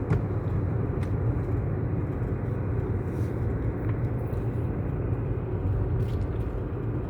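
Steady low rumble of a vehicle driving along, its engine and tyres running evenly with no change in speed.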